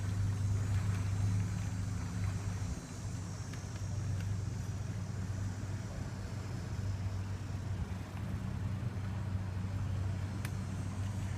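A small motorboat's engine running steadily at a low drone, easing off briefly about three seconds in.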